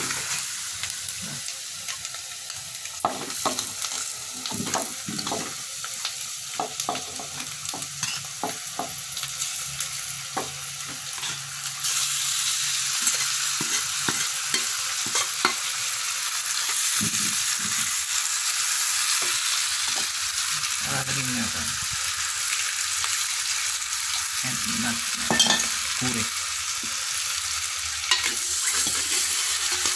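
Food frying and sizzling in a clay pot, with the clicks and scrapes of a ladle stirring. About twelve seconds in the sizzle becomes louder and steadier, with occasional ladle knocks.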